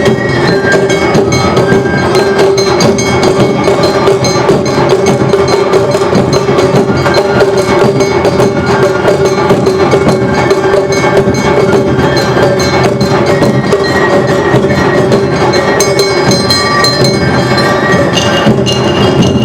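Awa odori festival music played live: a fast, even beat of struck percussion, the metal kane hand gong and taiko drums, under a steady held melodic line.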